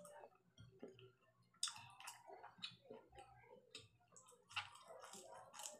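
Close-miked eating sounds: a person chewing food, with irregular wet clicks and lip smacks and a louder burst of them about one and a half seconds in and again near the end.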